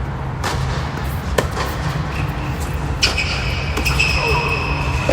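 Tennis balls struck by rackets during a doubles rally: four sharp hits, the loudest about three seconds in, over a steady low rumble.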